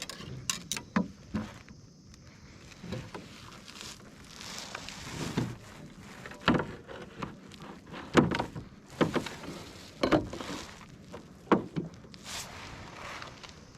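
Irregular knocks and bumps in a Hornbeck lightweight canoe, with softer swishes of water between them.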